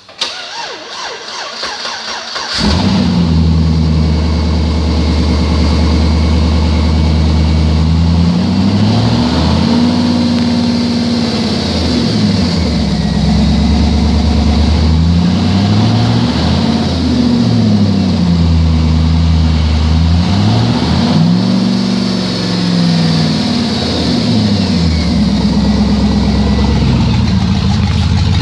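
2009 Chevrolet Avalanche's 5.3-litre V8 cranked by the starter and catching about two and a half seconds in, then running loud with its exhaust cut off after the catalytic converters. It is revved up and down several times before settling back to a steady idle.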